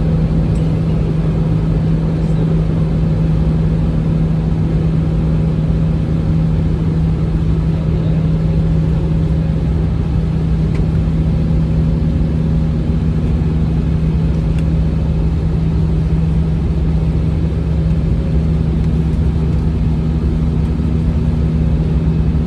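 Airbus A319 jet engines and airflow during the climb after takeoff: a steady drone with a constant low hum over a dense rumble.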